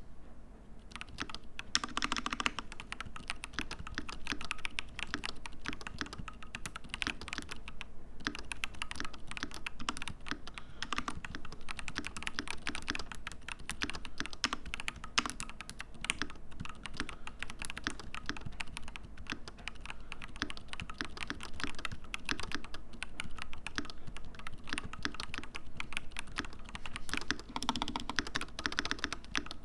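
Custom mechanical keyboard with lubed Drop Holy Panda tactile switches, a brass plate and an aluminium case, being typed on steadily and quickly. Dense run of key clacks with a few busier flurries.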